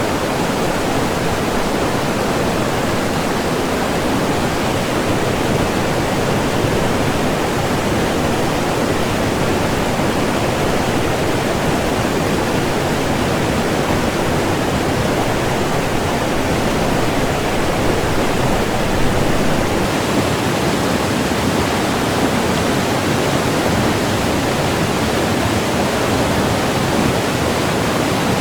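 Loud, steady rush of fast white water on the Kolvitsa River, unbroken throughout.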